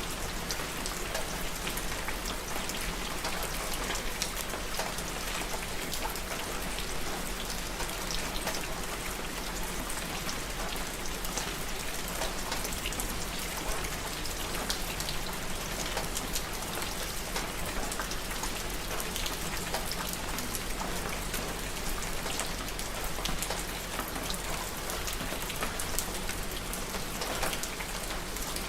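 Steady rain falling on a surface, a continuous hiss dense with the patter of individual drops.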